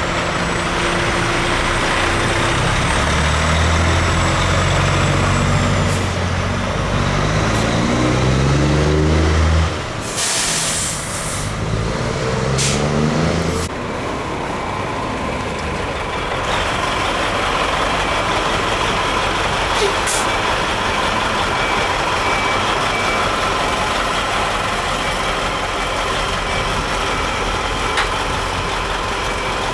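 Heavy diesel truck engine accelerating, its pitch climbing repeatedly through the first part, with a short sharp hiss of air about ten seconds in, then running at a steady cruise.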